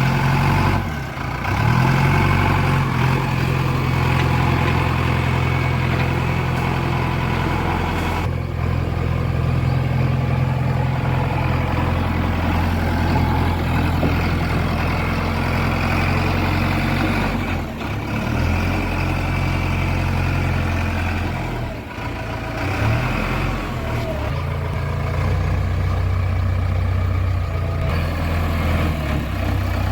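JCB 3DX backhoe loader's diesel engine running steadily, its note shifting a few times.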